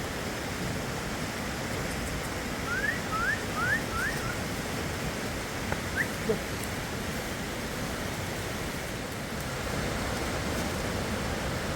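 Fast river water rushing steadily. About three seconds in come four quick, high rising chirps, and one more near six seconds.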